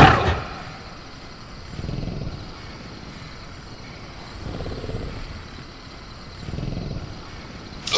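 Movie-style velociraptor sound effects: a loud growl dies away at the start, three soft low growling breaths follow, and another loud outburst begins near the end. Faint steady cricket chirring runs underneath.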